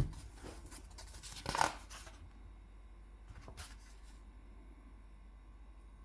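A few short scratching sounds on paper while drawing: a tap at the start, scratchy strokes in the first two seconds with the loudest about a second and a half in, and one more near the middle. Between and after them only a faint low room hum.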